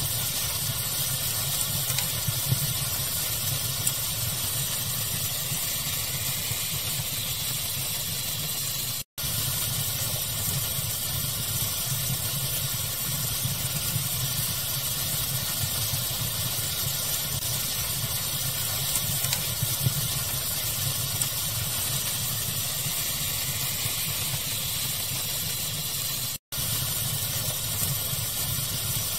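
Fire crackling with faint scattered pops over a steady pink-noise hiss and low rumble. The sound cuts out completely for an instant twice.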